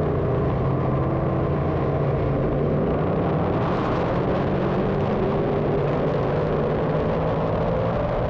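Several 358 small-block dirt modified race cars running laps together, their engines droning steadily and overlapping, a little brighter from about three and a half seconds in.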